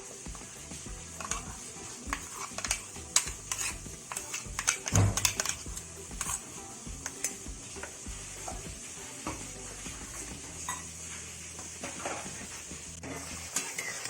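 A metal spoon scraping and clinking against cookware in short, irregular strokes, over a steady sizzling hiss from the cooking pot.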